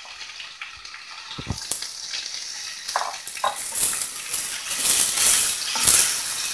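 Sliced elephant apple frying in a hot kadai and stirred with a wooden spatula. The sizzle swells from about two seconds in, with scattered knocks and scrapes of the spatula.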